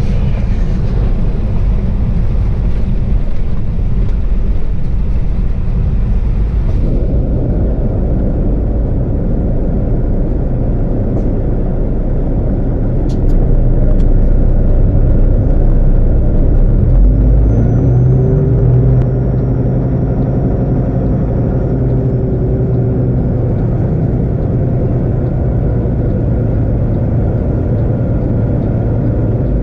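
Steady low rumble of a car driving, engine and road noise, with the sound changing abruptly about seven seconds in. A pitched drone rises out of it for several seconds past the middle.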